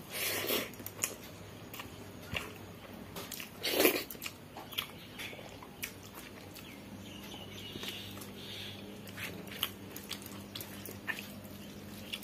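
Close-up chewing and wet mouth sounds of a person eating rice and dalma by hand, with many small clicks and two louder bites, the loudest about four seconds in.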